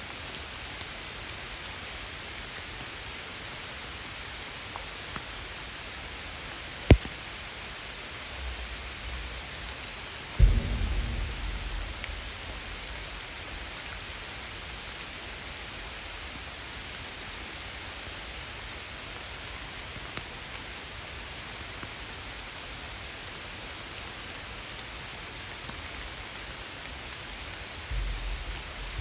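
Steady rain falling, an even hiss. A sharp click comes about 7 s in, and a low thump with a short rumble follows about 10 s in; more low rumbling comes near the end.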